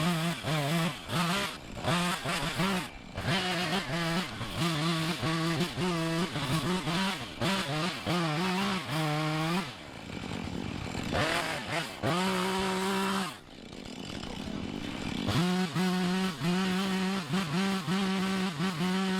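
Two-stroke chainsaw limbing a felled tree, revved hard through cuts with frequent brief throttle drops. The revs fall away twice partway through, then run steadily high near the end.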